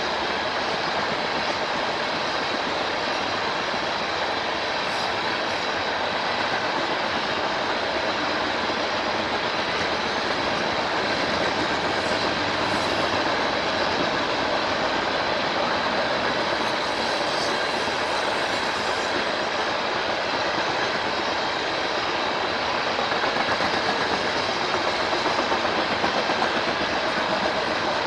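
A train passing on the line, its wheels rolling on the rails in a steady, unbroken rush of noise that grows a little louder near the end.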